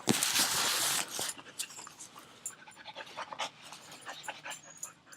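Dog panting. There is a loud breathy rush in the first second, then quieter breathing with light scattered clicks.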